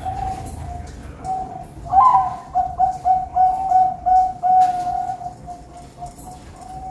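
Zebra dove (perkutut) cooing: a louder run of quick, pulsing coo notes starts about two seconds in and lasts some three seconds, over fainter cooing before and after.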